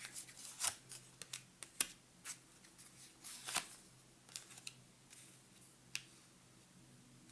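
Tarot cards being handled: irregular soft snaps and slides of cards being shuffled, drawn and laid down, busiest in the first half and thinning out after.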